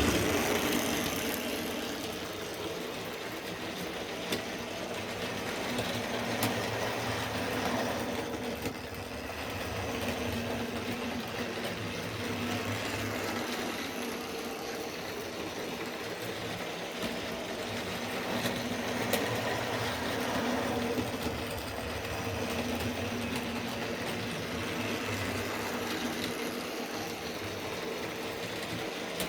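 Tri-ang Railways OO-gauge model train running on its track: a steady electric-motor hum with a few sharp clicks of the wheels over rail joints and points.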